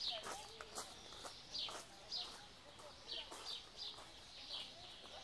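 A small songbird repeating a short, high, falling chirp over and over at uneven gaps of about half a second to a second, with faint lower warbling under it.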